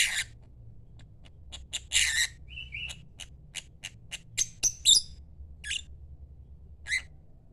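Lovebird calling: a quick string of short, sharp chirps mixed with a few harsher squawks and one brief held whistle, in an irregular rhythm that fades out near the end.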